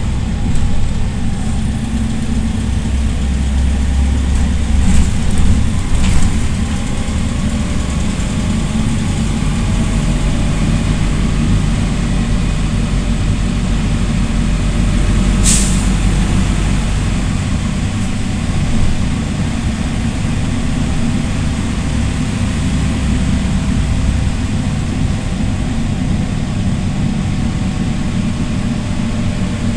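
PAZ-320405-04 Vector Next bus running on the road, a steady low engine drone throughout. Just past halfway there is one short, sharp hiss of released air.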